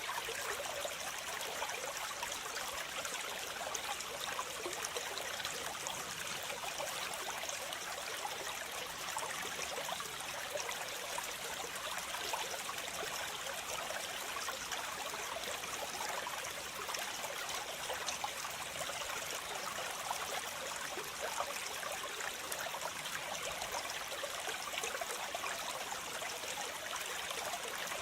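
Waterfall: a steady rush of falling and splashing water, mostly in the middle and high range.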